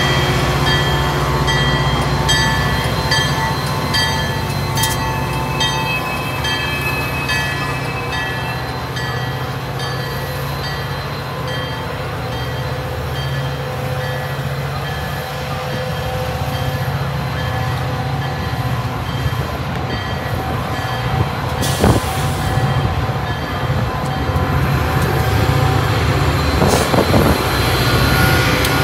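Metra diesel locomotives and bilevel commuter cars running past, the engine a steady low rumble, while a grade-crossing bell rings in an even repeating pattern. A high squeal is held for a couple of seconds early on, and a single sharp clank comes about two-thirds of the way through.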